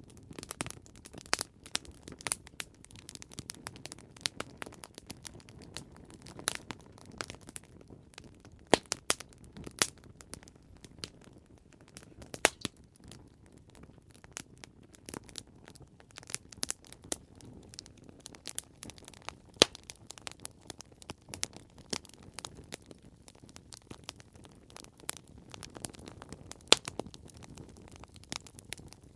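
Wood fire crackling: irregular sharp pops and snaps over a low steady hiss of burning, with a few louder pops scattered through.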